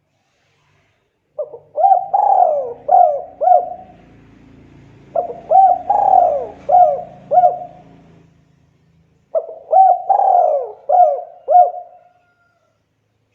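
Spotted dove (tekukur) cooing: three phrases of about five coos each, a couple of seconds apart.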